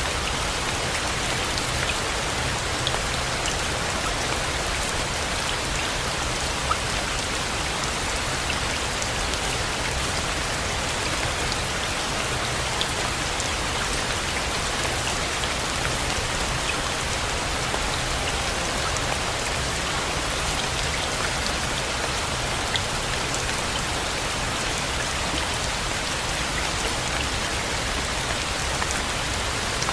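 Steady rain, an even hiss of falling water with scattered drop ticks and a few louder single drops now and then.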